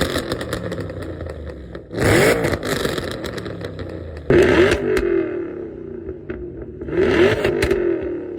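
Muscle car engine revved hard three times, each blip sweeping up and falling back to a lumpy idle between.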